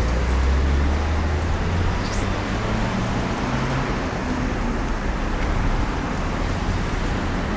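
Street traffic noise: a steady wash of road vehicles, with a low engine rumble in the first couple of seconds that then eases off.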